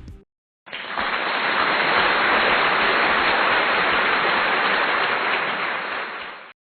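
A steady rushing hiss that starts abruptly about a second in and cuts off sharply near the end.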